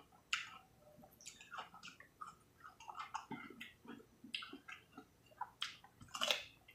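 Close-miked chewing of fried chicken: faint, irregular soft crunches and wet mouth clicks, a little louder near the end.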